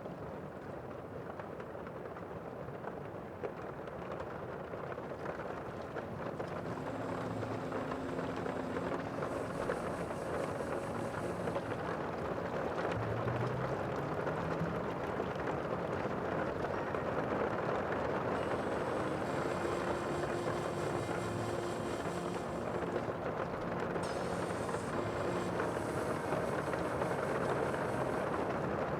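Sea waves washing, a steady rushing noise that grows slightly louder over the first half.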